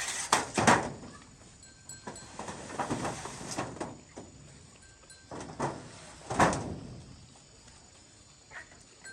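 Animal calls, several loud cries with falling pitch in three groups: at the start, about three seconds in, and about six seconds in.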